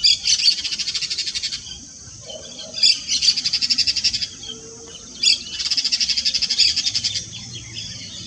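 Yellow-chevroned parakeet calling: three high, rapid chattering trills of about one and a half seconds each, every one opening with a sharp note, with fainter chatter between them.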